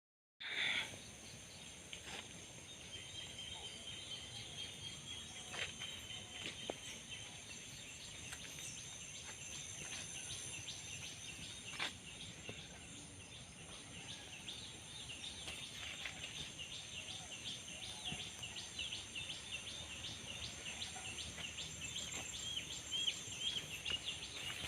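Rural outdoor ambience: a steady high insect drone with birds chirping, the chirps coming faster near the end, plus a few faint knocks.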